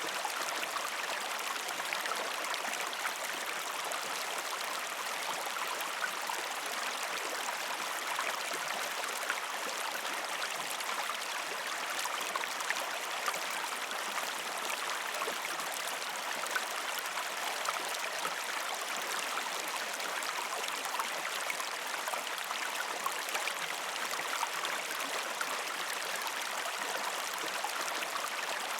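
A shallow stream flowing and splashing over rocks in a steady, even rush with a fine patter of small splashes.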